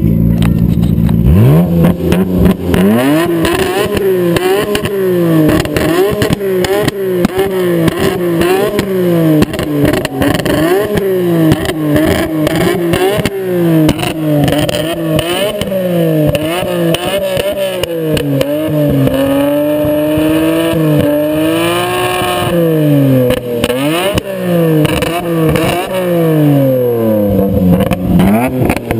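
Nissan Skyline GT-R R32's twin-turbo RB26 straight-six with a straight-pipe exhaust, revved over and over in quick blips. About two-thirds of the way through it is held for a few seconds at a slowly rising pitch, then drops back to quick blips.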